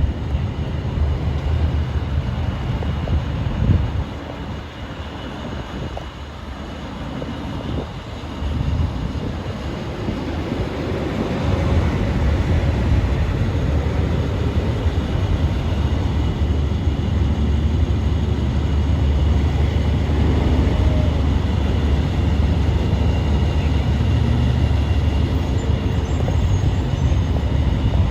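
Steady low rumble of heavy vehicle traffic, dipping a few seconds in and growing louder and fuller from about twelve seconds in.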